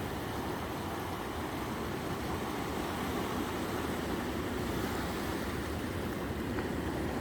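Sea surf washing onto the shore, a steady rushing noise with no separate breaks standing out.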